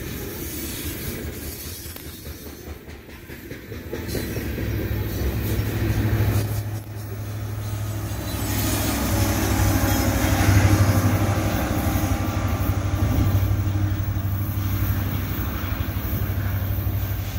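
Loaded coal hopper cars rolling past with wheel clatter on the rails. Then a BNSF SD70ACe diesel-electric locomotive draws near, and its 16-cylinder two-stroke engine fills the sound with a steady low drone, loudest as the unit passes close by.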